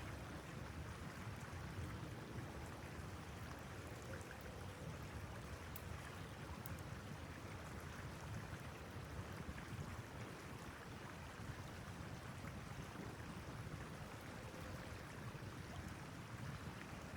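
Steady rushing wind, with a few faint ticks.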